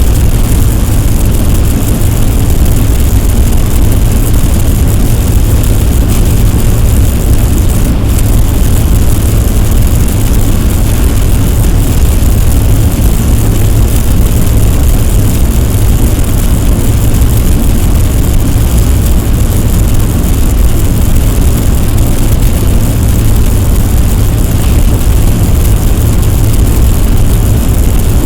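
Loud, steady, dense rumbling noise, heaviest in the deep bass, with no breaks or changes.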